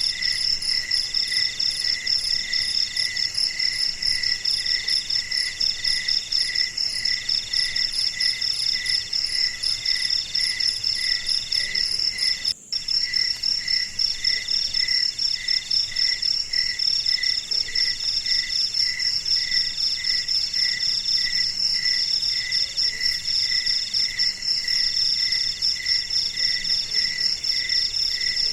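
Night chorus of crickets and other insects: a steady high trill, with a lower chirp pulsing about twice a second and a longer trill repeating about every second and a half. All of it cuts out for a split second about halfway through.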